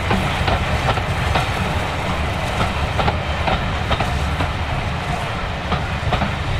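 Steam-hauled train of passenger coaches rolling past, with a steady low rumble and a run of sharp clicks as the wheels cross rail joints.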